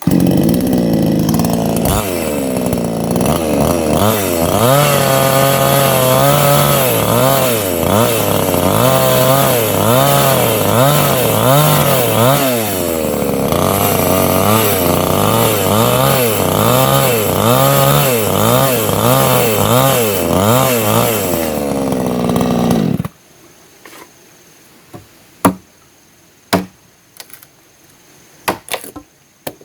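Chainsaw running and cutting wood, its engine pitch repeatedly dipping and rising as it bites under load, then cutting off suddenly about 23 seconds in; a few sharp knocks and taps follow.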